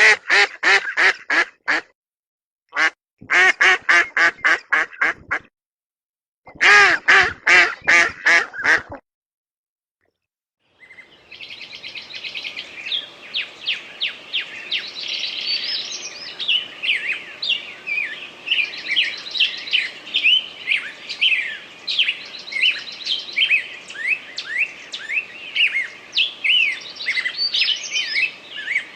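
A duck quacking in quick runs, in three bouts over the first nine seconds. After a short pause, small birds chirp busily in a continuous high chorus.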